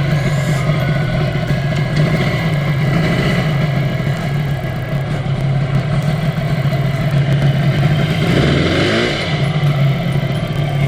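Yamaha TZR250 (1KT) two-stroke parallel-twin engine pulling steadily under way on the motorcycle. About eight seconds in the revs dip briefly, then the note climbs back.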